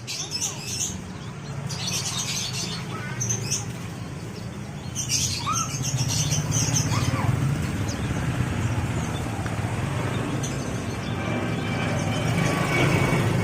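Caged songbirds chirping in short bursts, a handful of times in the first six seconds, over a steady low rumble that grows louder about five seconds in.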